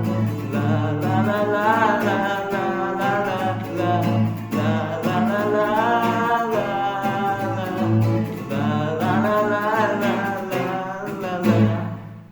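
Singing over an acoustic guitar: the final refrain of a song cover. The music stops about twelve seconds in.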